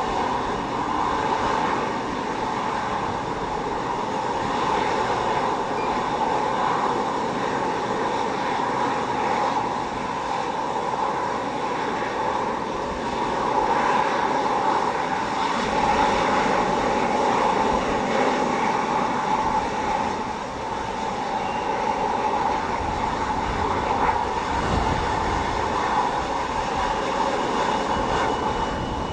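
Aircraft engines running steadily, with a strong band of whine. Gusts of strong wind buffet the microphone twice, about halfway through and again near the end.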